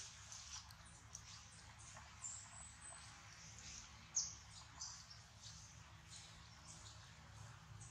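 Faint high-pitched bird chirps, with one short thin whistle about two seconds in, over near silence; a few light ticks and rustles, the sharpest just after four seconds.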